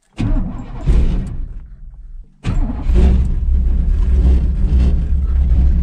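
Cold start of a cammed Chevy small-block V8 in a 1983 C10 pickup, whose carburetor has no choke: the engine fires with a burst of revs that then sags away. About two and a half seconds in, the sound cuts off abruptly and comes back with the engine running loud and steady.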